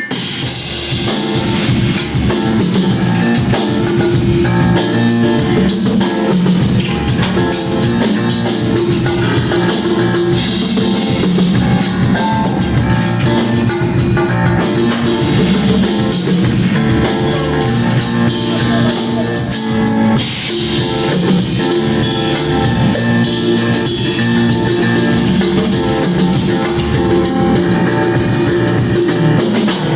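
Rock band playing live and loud: drum kit keeping a steady beat under electric guitar and bass.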